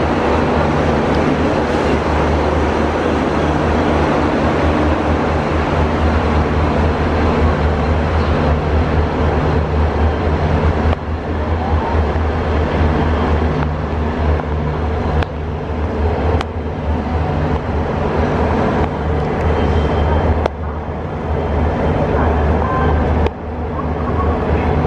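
Steady rumble and low engine hum of a diesel-hauled passenger train, with a few abrupt dips in level.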